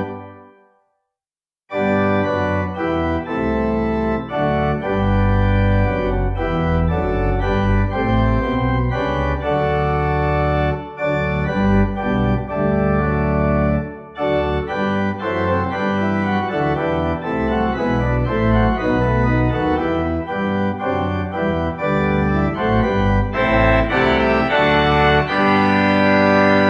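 Organ playing a hymn tune in sustained chords. A held chord dies away just after the start, and after a pause of about a second and a half the playing resumes and runs on until it stops abruptly.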